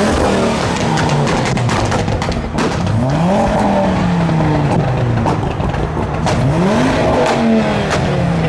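Modified car engine revved hard about three times, each rev climbing steeply and then dropping away. Sharp exhaust pops and bangs are scattered through it, the crackle of a car tuned to spit flames.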